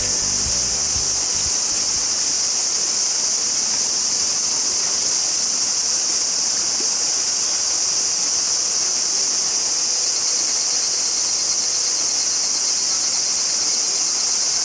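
Steady high-pitched insect chorus, continuous and unbroken, over an even hiss.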